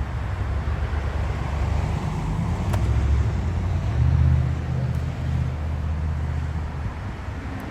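Car engine and road traffic noise: a steady low rumble that swells about three and again about four seconds in, with one brief click near three seconds.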